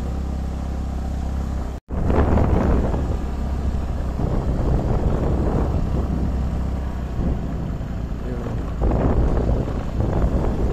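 Motorcycle running on the move, its engine drone mixed with wind noise on the microphone. The sound cuts out for an instant about two seconds in and comes back a little louder.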